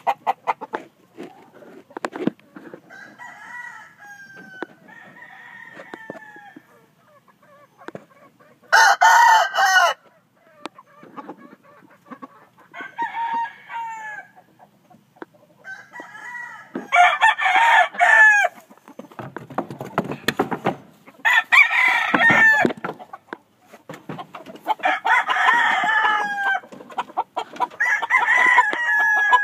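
Several gamefowl roosters crowing in turn, some close and some farther off: about nine crows, each one to two seconds long, two of them much louder than the rest.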